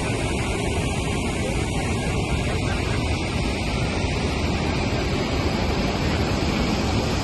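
Niagara Falls' water pouring down, a steady, unbroken roar of rushing water.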